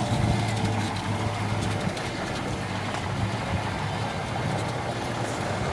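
A vehicle engine running steadily, a constant low hum under a noisy rumble.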